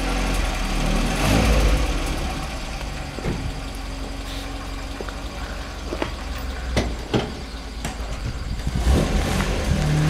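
Peugeot 203's four-cylinder petrol engine idling steadily, swelling louder twice, with a few sharp clicks near the middle.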